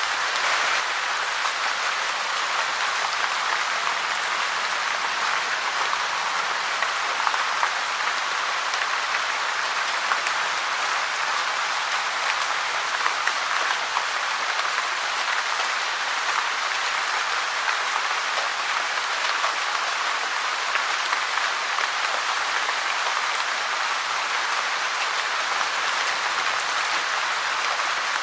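Steady rain falling, a dense even hiss of countless drops with small crackling ticks.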